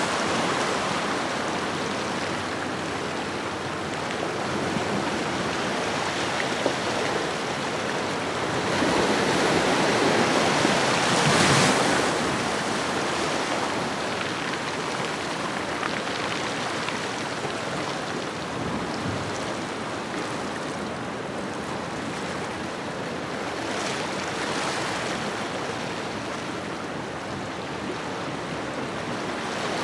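Ocean waves washing onto a shoreline: a steady rush of surf that swells with a larger wave about ten seconds in and eases off again.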